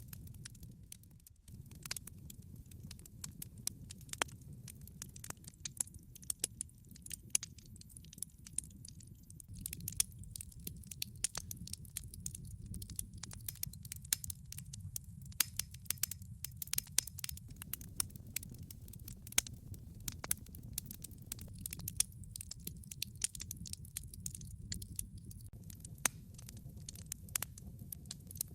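Wood log fire burning, with a steady low rumble and frequent irregular crackles and pops from the burning wood.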